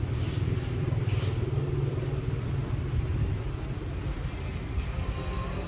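A steady low rumble, with a couple of faint light sounds in its first second or so.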